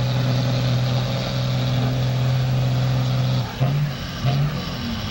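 Diesel pickup truck engine running hard at steady high revs while pulling a weight sled, then backing off about three and a half seconds in to short, uneven rises and falls in revs.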